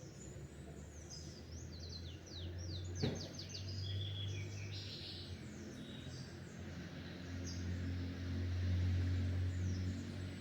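Small birds chirping, with a run of quick, high, falling chirps from about one to five seconds in and scattered chirps after, over a steady low rumble. A single sharp click about three seconds in.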